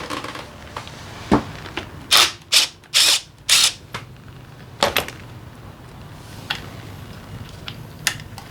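Hand and power tool work on a scooter engine: a sharp knock, then four short noisy bursts from a power or air tool in quick succession, one more burst, and a few light metal clicks.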